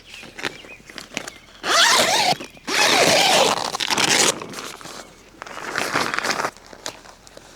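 A zipper being pulled in three long rasping strokes, with small rustles and clicks between them.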